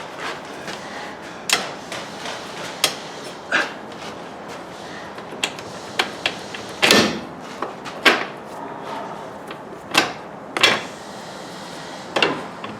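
Hand tools and metal parts knocking and clinking during suspension work: about a dozen sharp knocks at irregular intervals, the longest about seven seconds in.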